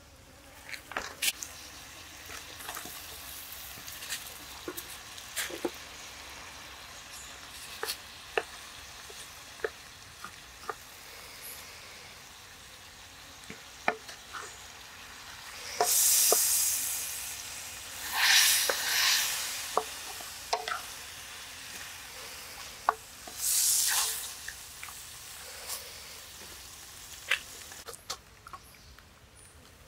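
Pig intestines and tomato pieces sizzling in an iron wok over a wood fire while a wooden spatula stirs them. A steady frying hiss runs under scattered sharp clicks, with a few louder spells of hissing around the middle.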